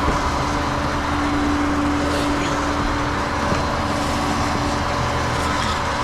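Flatbed tow truck's engine running with a steady, even drone.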